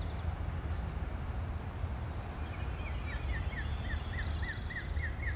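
A songbird singing a quick series of short, down-slurred whistled notes, about three or four a second, starting about two seconds in. A fainter, higher bird call sounds alongside, over a steady outdoor rumble and hiss.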